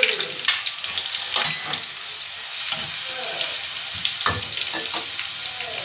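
Garlic and spices sizzling in hot oil in a steel kadhai, with onions frying in a second pan beside it: a steady hiss, broken by a few sharp clicks and scrapes of a steel spatula against the pan.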